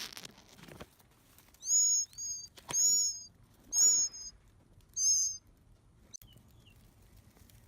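Songbird calls: five short, high chirps in about four seconds, several of them doubled and each dropping slightly at the end, with a faint call after them. Leaves rustle briefly at the start.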